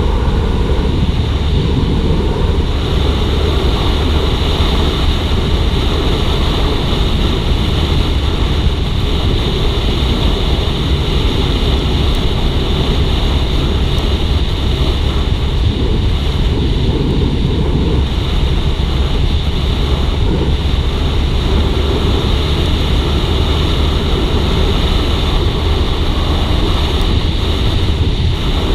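Steady wind rush over the microphone mixed with the engine and road noise of a Suzuki GSX-R150 motorcycle being ridden at a constant speed.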